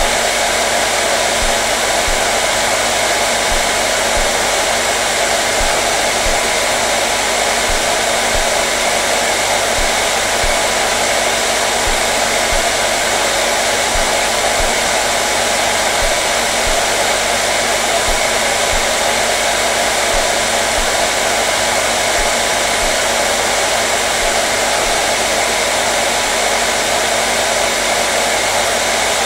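Hand-held hair dryer running continuously on a steady setting: a loud, even rush of air with a faint hum of the motor, no change in pitch or level.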